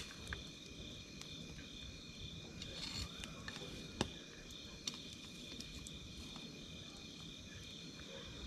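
Campfire crackling, with a few sharp pops, the loudest about four seconds in, over a low rumble. Insects chirp steadily throughout: one high steady trill and a second, pulsing one just above it.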